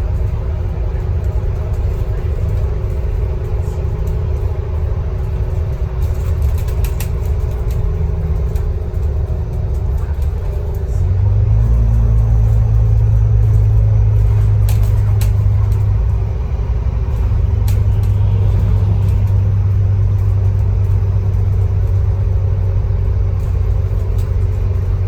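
Scania K310UB city bus running on the road, its engine a steady low drone. About eleven seconds in the engine pulls harder and the drone grows louder, easing briefly around sixteen seconds before holding again, with a few sharp rattles along the way.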